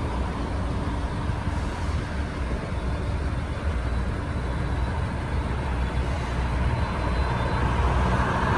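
Steady low rumble of a commuter train moving along the track, with the tyre noise of a car that has just passed close fading away just after the start, and another car's tyre noise swelling as it approaches near the end.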